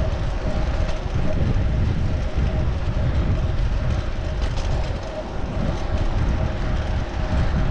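Wind buffeting the microphone of a chest-mounted action camera while cycling, heard as an uneven low rumble over steady road and traffic noise, with a faint steady hum.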